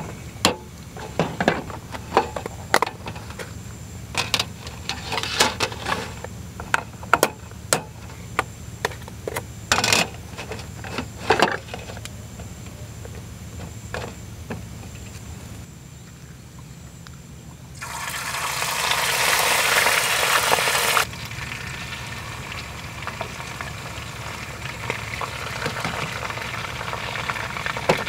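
Plastic food containers and lids clicking and knocking as they are handled, then squid going into hot oil in a small camping pan with a loud sizzle about eighteen seconds in that cuts off suddenly after about three seconds, followed by a steady softer frying sizzle.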